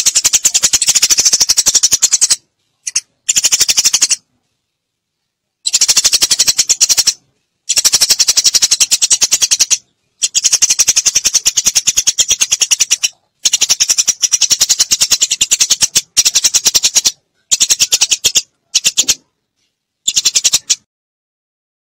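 Eurasian tree sparrows chattering: rapid, sharp, high chirps packed into bursts of one to three seconds with short silent gaps between them, played as a recorded lure call.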